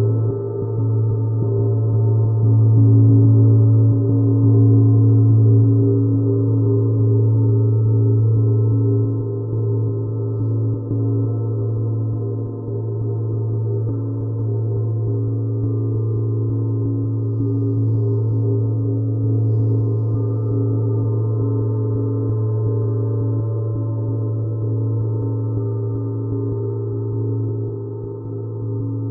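Gong sounding in a long, sustained resonant drone: a deep steady hum under many layered overtones, slowly swelling and easing without distinct strikes.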